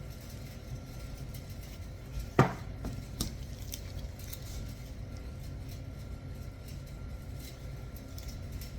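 A kitchen utensil or dish knocking once sharply about two and a half seconds in, followed by a few lighter clicks, over a steady low rumble.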